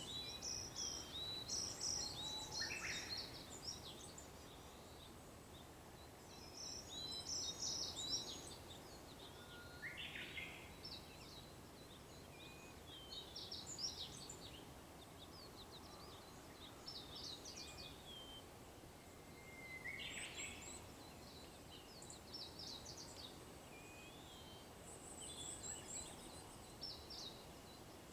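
Japanese bush warbler (uguisu) singing its hoo-hokekyo song three times, about eight to ten seconds apart: each time a held note, then a quick flourish. Other small birds keep up a busy, higher-pitched chirping throughout, over a steady low background hiss.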